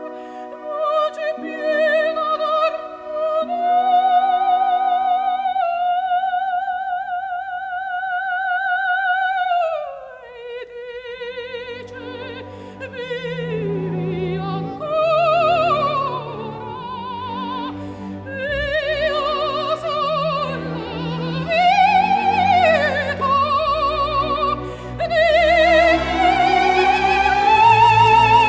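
An opera aria: a singer holds high notes with wide vibrato, then the melody drops and moves more freely over the orchestra. The lower orchestral parts grow fuller about a third of the way in.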